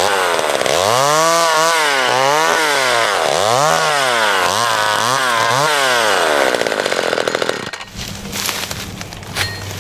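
McCulloch Mini Mac 35 two-stroke chainsaw running hard, its engine pitch rising and falling about once a second. About eight seconds in it drops back to a low idle.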